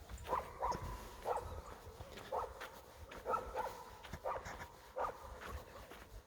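A dog barking repeatedly, about eight short barks at uneven intervals.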